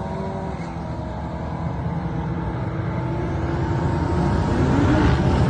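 Drag cars' engines running far down the drag strip, a steady, even drone that grows louder toward the end.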